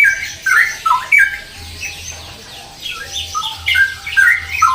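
Straw-headed bulbul (cucak rowo) in full song, sometimes called "gacor": loud warbling phrases of quick gliding, falling notes. Two bursts of song, at the start and again near the end, with a quieter lull between.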